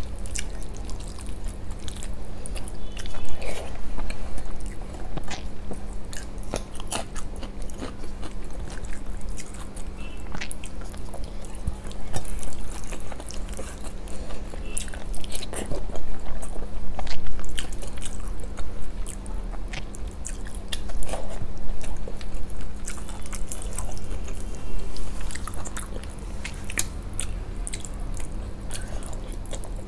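Close-miked eating: chewing and wet lip smacks as soft rice and curry are eaten by hand, with fingers squishing the food, in a run of short clicks and smacks. A steady low hum runs underneath.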